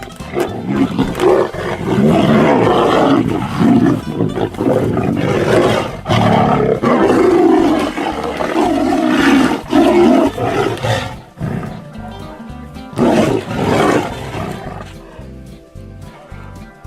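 Two tigers fighting, roaring and snarling in loud rough bursts through most of the first eleven seconds, with one more burst about thirteen seconds in. Background music runs underneath and is left alone near the end.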